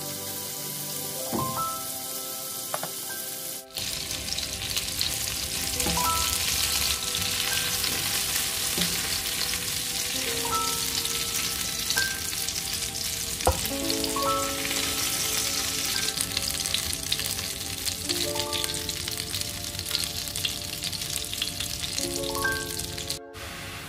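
Marinated chicken pieces sizzling as they fry in hot oil in a non-stick frying pan, the sizzle coming in loud about four seconds in. Soft background music with single held notes plays throughout.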